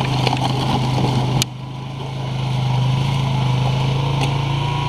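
ATV engine running steadily under way. About a second and a half in it drops off suddenly, then builds back up.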